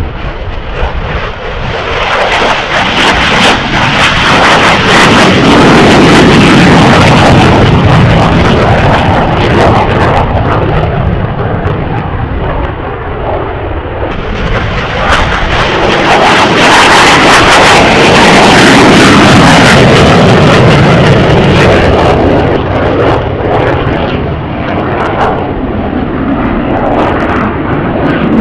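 Jet aircraft engine noise, a loud roar that swells twice, peaking about a quarter of the way in and again past the middle, with a slowly shifting, sweeping tone as the aircraft pass.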